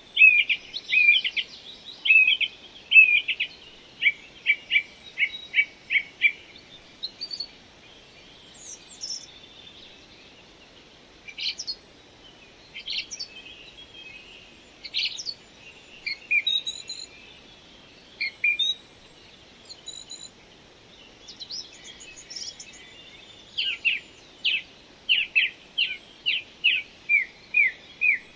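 Birds singing: a quick series of short, high chirps, about three a second, at the start and again near the end, with scattered single calls in between.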